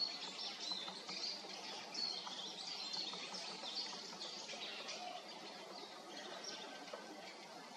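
Small songbirds chirping: many short, high chirps overlapping, busiest in the first few seconds and thinning out toward the end.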